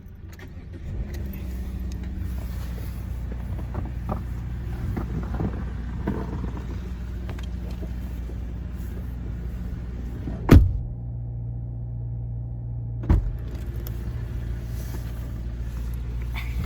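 Car engine idling with a steady low hum while it warms up in the cold. A loud thud comes about ten and a half seconds in, after which everything sounds muffled, and a second, smaller thud comes about two and a half seconds later.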